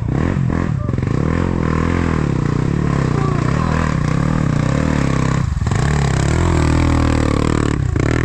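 Off-road motorcycle engine revving, its pitch rising and falling again and again, with short dips about five and a half and eight seconds in.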